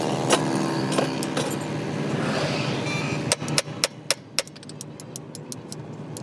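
Steady vehicle engine noise, then from about halfway a quick, irregular run of light metallic clicks and taps, like tools or parts knocking together during the leaf spring repair.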